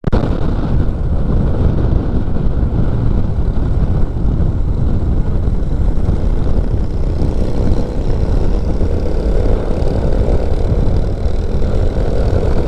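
Steady motorcycle riding noise: loud wind rumble on the microphone over the running engine, with no clear pitch changes.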